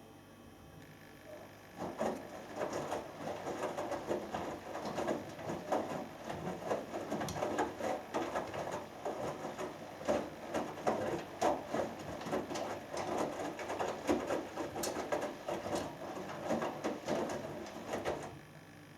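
Hoover Dynamic Next washing machine in its main wash: after a pause, the drum turns for about sixteen seconds, with the laundry and water sloshing and knocking inside, then stops suddenly.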